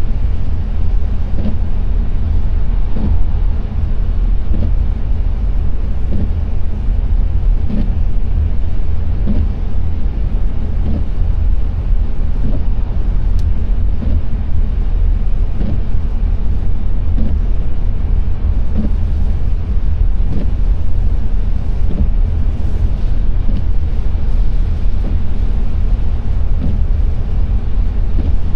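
Car driving on a wet road, heard from inside the cabin: a steady low rumble of road and engine noise with a hiss of tyres on the wet surface. Faint short knocks recur about every second and a half.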